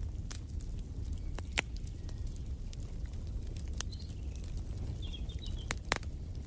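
Wood fire in a fireplace crackling, with irregular sharp pops over a low steady rumble. A bird chirps a few times faintly in the background about four and five seconds in.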